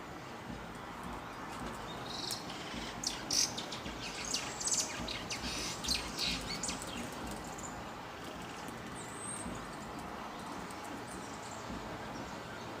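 Small birds chirping: a quick flurry of short high chirps starts about two seconds in and lasts several seconds, then tails off to an occasional call. Under it runs a steady outdoor background hiss.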